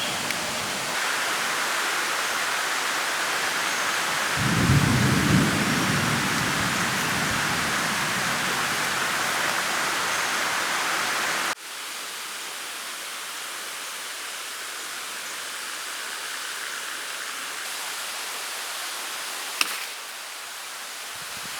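Steady heavy rain with a low rumble of thunder about five seconds in. About halfway through the rain drops suddenly to a quieter, lighter hiss, with one sharp tick near the end.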